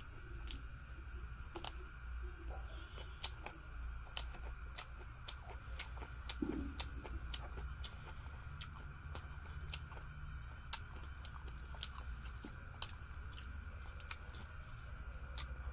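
Close-up eating sounds of a person chewing a mouthful of rice, fish and vegetables, with many sharp, irregular mouth clicks and smacks over a steady low hum. A brief low vocal sound comes about six and a half seconds in.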